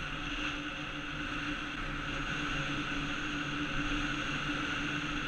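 48-volt electric bike cruising at a steady speed on cruise control: a steady electric-motor whine of several even tones over a constant hum of wind and road noise, muffled by the GoPro's waterproof housing.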